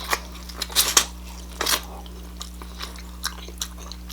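Close-miked chewing of corn on the cob: a handful of sharp, irregular crunchy clicks and wet mouth sounds.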